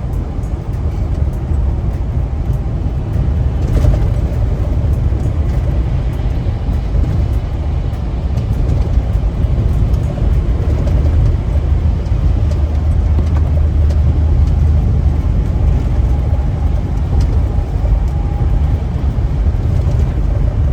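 Semi truck driving on the highway, heard from inside the cab: a steady low engine and road rumble.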